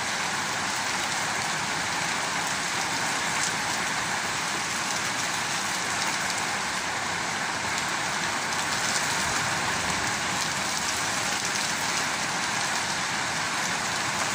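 Heavy rain pouring steadily onto a wet brick-paver patio and garden: an even, unbroken hiss of drops.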